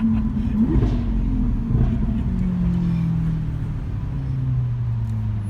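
Lamborghini Aventador's V12 engine running, with a short rise in revs about a second in, then the engine note falling steadily as the revs drop.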